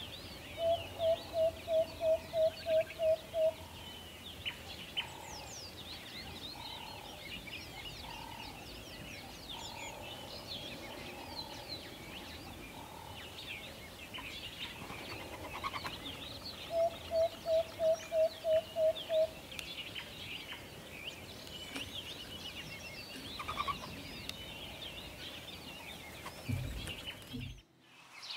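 Chicken clucking in two runs of about nine evenly spaced clucks, roughly three a second, over the steady high chirping of many small birds.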